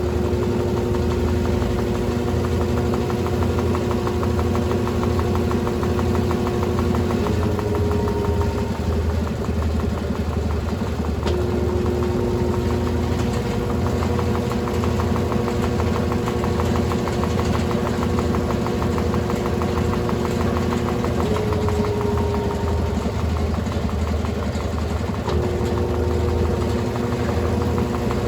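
Brastemp Ative 11 kg top-loading washing machine running through its cycle: a steady motor hum with a fine rhythmic rattle. Twice the hum shifts pitch and drops out for a few seconds, then comes back.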